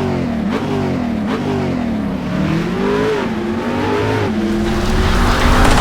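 An engine revving up and down repeatedly, its pitch rising and falling every half second or so, then holding steadier and growing louder near the end.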